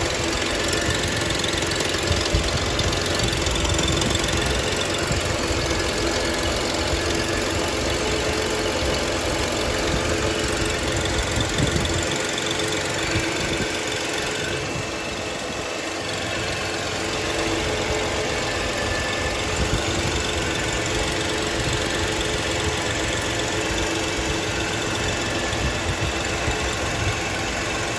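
2003 Ford Taurus engine running cold, making the strange noise that it has before it warms up: steady engine noise with a few held tones running through it. It eases off briefly about fifteen seconds in.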